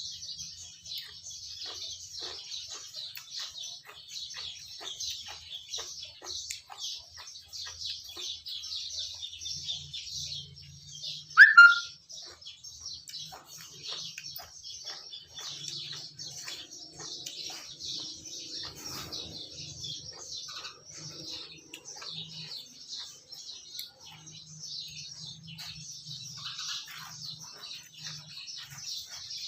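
Many small birds chirping in a dense, unbroken chorus. About a third of the way in, one loud, brief, high cry rises and falls in pitch and stands out above the chorus.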